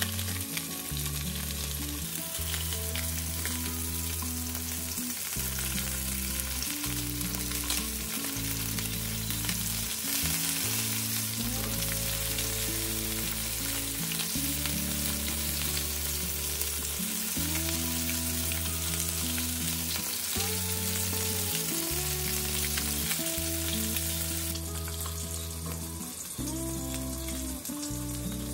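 Salmon pieces searing in hot olive oil in a frying pan: a steady sizzle as they are turned with tongs, easing a little near the end.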